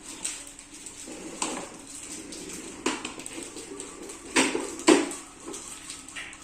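Hard objects clattering and knocking together, with a handful of sharp knocks; the two loudest come close together about four and a half and five seconds in.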